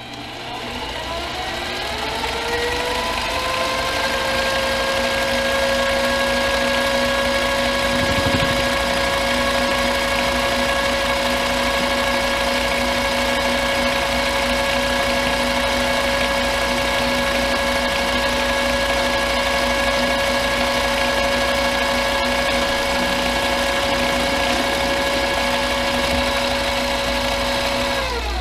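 Harbor Freight mini lathe's motor and gear train spinning up, running with a steady whine while it takes a turning pass on round stock, then spinning down right at the end.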